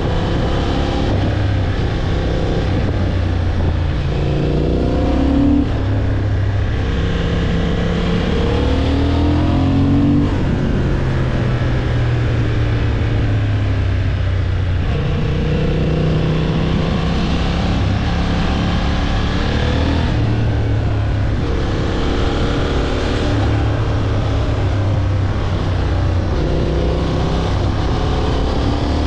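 Honda CB750 Hornet's parallel-twin engine under way, its pitch climbing and falling a few times as the throttle is rolled on and off, over steady wind rush on the helmet microphone.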